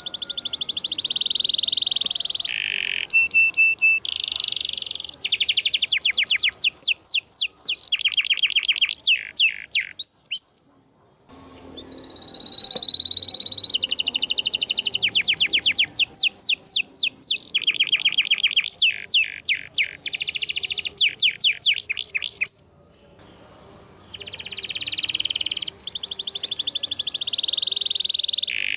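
Domestic canary singing a long, loud song of fast trills and rolls mixed with held whistled notes, in phrases broken by two short pauses.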